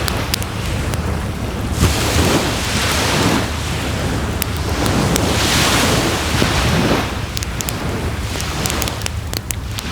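Waves washing onto the shore in two swells, over a campfire crackling and popping throughout. Under both runs a steady low rumble of wind.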